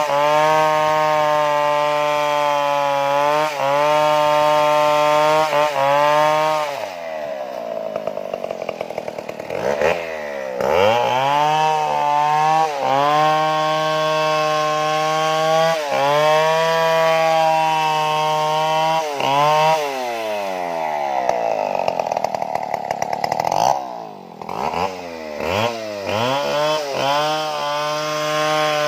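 Stihl chainsaw running at high revs in a cut, with a few brief dips. Twice its speed falls away and then revs back up.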